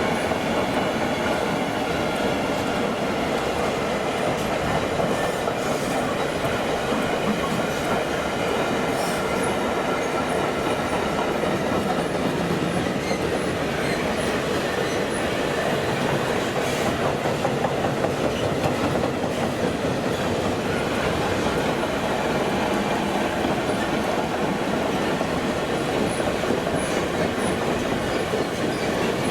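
A train running past steadily for the whole stretch, with continuous wheel-on-rail noise and a faint high squeal from the wheels.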